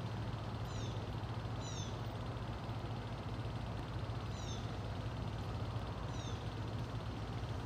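Steady rain with a low steady hum under it. A few short, high, falling chirps cut through now and then, four in all.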